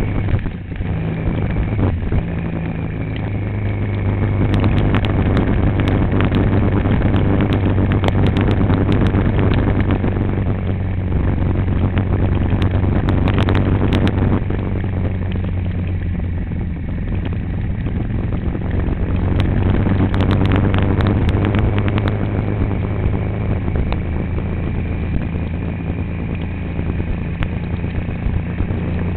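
Motor vehicle engine running steadily while travelling, with scattered rattles and knocks in the middle stretch.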